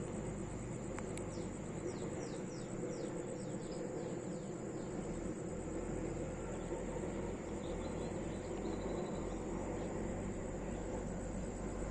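A steady, high-pitched insect drone, with a bird giving a quick run of short falling notes about a second and a half in, over a low background rumble.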